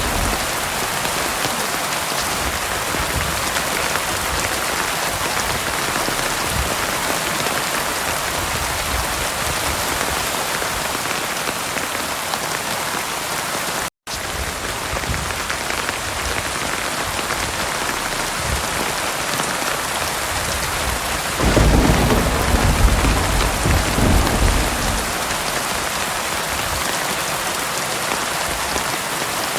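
Heavy, steady rain pouring down, with a roll of thunder rumbling low for a few seconds about three-quarters of the way through. The sound cuts out completely for an instant about halfway.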